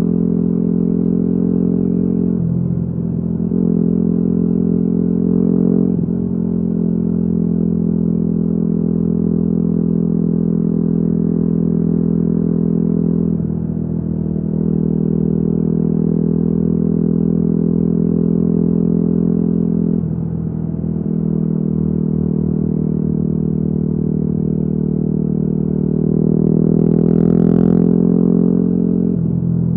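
Yamaha WR250R's single-cylinder engine through an FMF Q4 exhaust, running at a steady pace with a few brief breaks in the engine note, then pulling harder near the end.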